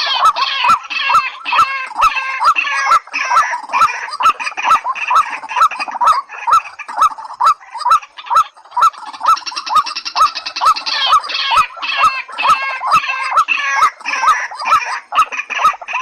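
Recorded calls of white-breasted waterhen and watercock: fast, repeated clucking notes over a steady ticking of sharp clicks about three times a second, with brief lulls in the calling.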